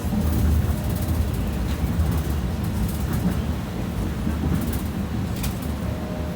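BKM 60102 tram running along the track, heard from inside the passenger car: a steady low rumble with a faint thin whine and a few light clicks.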